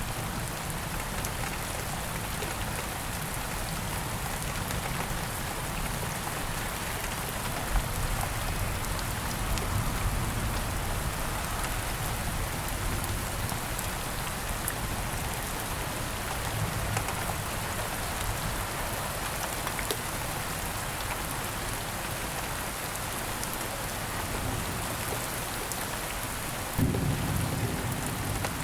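Steady rain falling, an even hiss of many drops with a low rumble underneath. A deeper low rumble, like thunder, sets in suddenly near the end.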